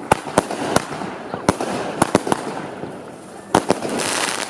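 Fireworks going off: a string of sharp bangs, about eight in all at uneven intervals, with a crackling hiss building near the end.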